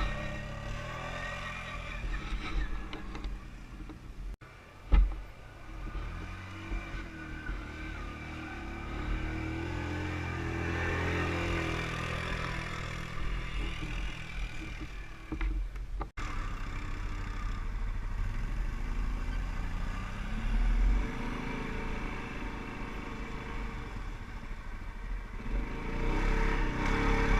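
ATV (quad bike) engines running and revving, rising and falling in pitch, with a sharp knock about five seconds in.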